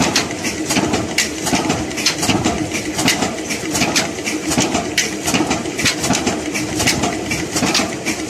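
Old Ruston Hornsby diesel engine running steadily: a constant hum with a rapid, uneven clatter of mechanical clicks and a slow, regular beat about once a second.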